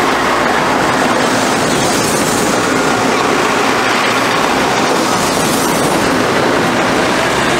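Narrow-gauge diesel train of Taiwan's Pingxi Line passing at very close range: a loud, steady rush of wheels on rail and running gear.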